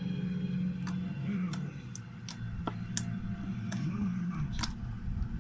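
Homemade fluffy slime being squeezed and stretched by hand, giving about eight sharp, irregular clicks and pops over a steady low hum.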